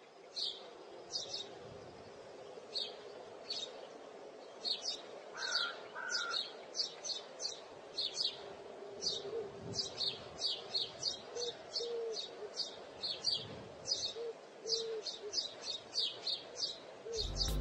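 Small birds chirping: a long run of short, high chirps, two or three a second, with two lower calls about five and a half seconds in.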